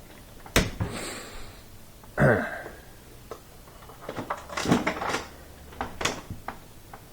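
Clicks and knocks from handling a dishwasher heating element and meter leads, with a short falling vocal sound about two seconds in.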